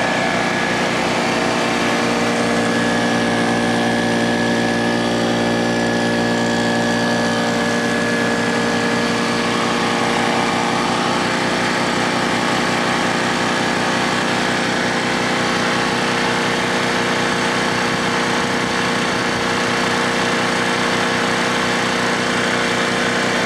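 Old Brute air compressor running steadily, its electric motor and pump powered by a portable gas generator whose engine is loaded by it. A steady, even machine sound with a fine low pulsing throughout.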